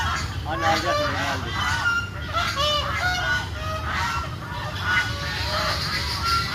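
A flock of domestic waterfowl calling: many short, arched calls overlap one another without a break, several a second.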